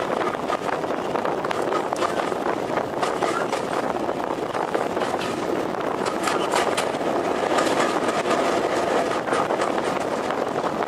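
A train running on the line: a steady rumble with many short clicks.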